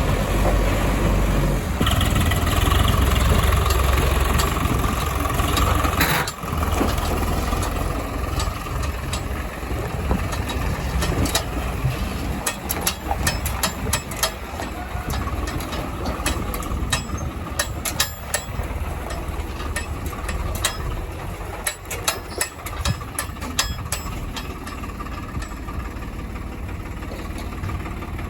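Heavy diesel engine of earth-moving machinery running, working harder for a few seconds early on before easing off suddenly, with many short sharp clicks and clanks scattered through the middle.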